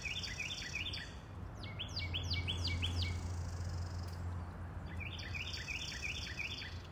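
A songbird singing three short phrases of quick, hooked chirping notes, a couple of seconds apart, over a steady low hum.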